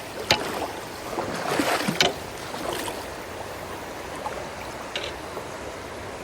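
Steady rush of floodwater running, with several sharp splashes and sloshes; the loudest come near the start and about two seconds in, smaller ones later.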